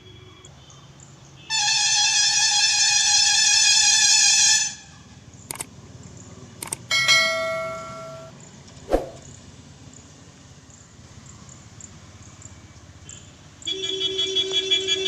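Intro sound effects over faint background noise: a held electronic tone for about three seconds, two short clicks, a bell-like chime ringing out, a single knock, then a pulsing beep starting near the end.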